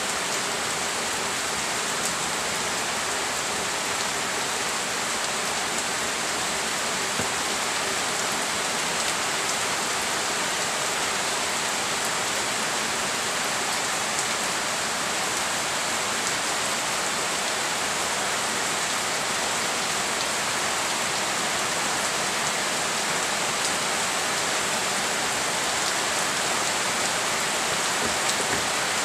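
Steady rain falling on garden foliage and wet, puddled ground: an even hiss with scattered faint drop ticks, unchanging throughout.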